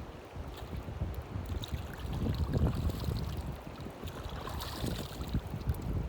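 Wind rumbling on the microphone, with gusts swelling about two seconds in.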